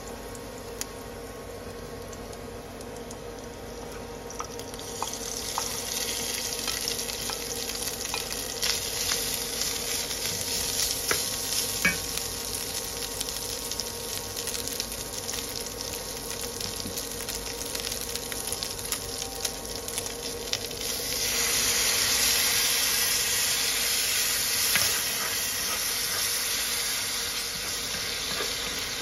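Chopped garlic sizzling in oil in a wok, stirred with a wooden spatula that clicks and scrapes on the pan. The sizzle grows louder about five seconds in as chilli goes in, and louder and hissier again about twenty-one seconds in as liquid spreads into the hot pan.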